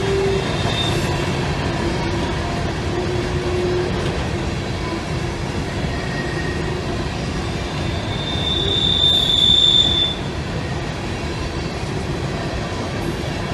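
Loaded-line of open-top coal cars on a CSX coal train rolling past with a steady rumble and clatter of wheels on rail. Wheels squeal faintly on and off, with one loud, high squeal lasting about two seconds near the two-thirds mark.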